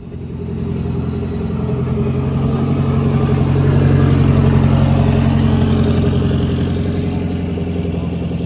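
A car engine at a steady low speed, growing louder to a peak about halfway and then fading, as a car moves slowly past.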